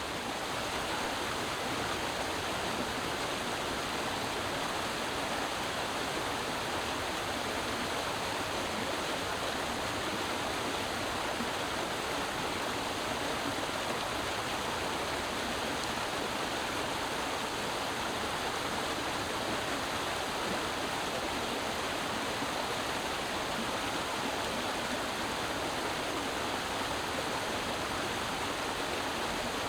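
Creek water flowing and splashing over rocks, a steady rushing babble.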